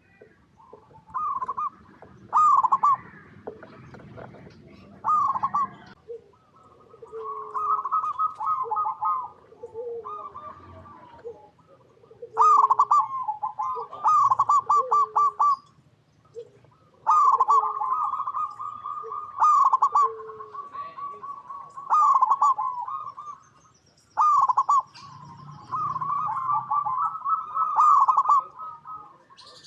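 Zebra doves (perkutut) cooing: repeated phrases of rapid, trilled coo notes, more than one bird calling at once and overlapping, with lower coo notes and faint high chirps in between.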